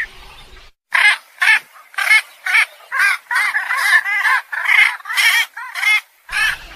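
Poultry giving a rapid string of short, harsh squawking calls, about two a second, starting about a second in, with several birds overlapping in the middle.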